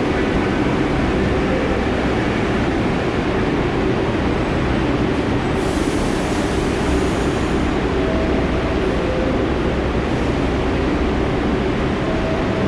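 New York City subway train running in the station: a steady rumble of wheels on rail.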